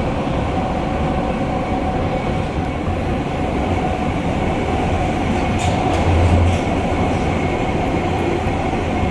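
R143 subway car running at speed through a tunnel: a continuous rumble of wheels on rail under a steady whine, with a brief heavier rumble about six seconds in.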